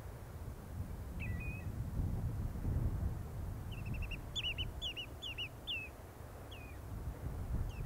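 Small bird calling: a short high call a little over a second in, then a quick run of high, down-slurred notes from about four to six seconds, with two more single notes after. A steady low rumble lies underneath.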